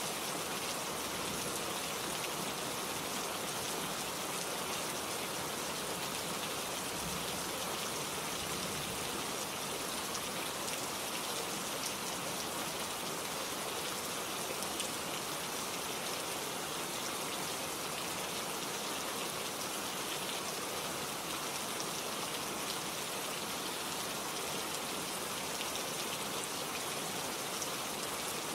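Steady rain, a dense hiss of drops with fine patter and no thunder or change in strength.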